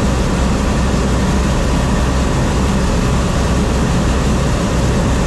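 John Deere 4400 combine running steadily: a loud, even machine noise over a low engine drone.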